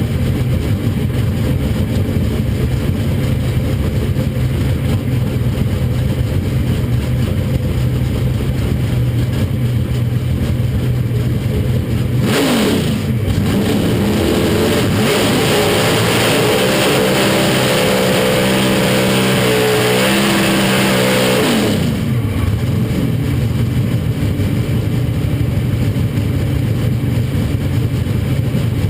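Drag-racing pro stock truck's V8 running at a lumpy idle. About twelve seconds in it revs hard for roughly ten seconds, its pitch climbing and dropping back at each gear change through a full-throttle pass, then falls back to a low rumble.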